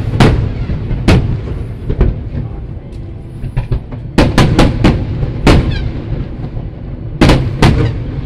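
Aerial firework shells bursting: a string of sharp bangs at irregular intervals, several in quick succession about four seconds in and again near the end, over a continuous low rumble.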